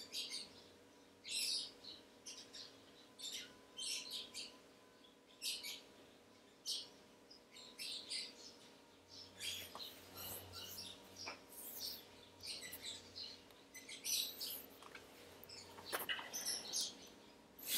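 Small birds chirping: short high calls in irregular clusters, several a second, over a faint steady hum.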